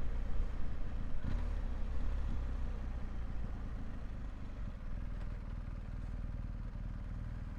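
Motorcycle engine rumbling low as the bike slows, dropping to a steady idle from about four seconds in.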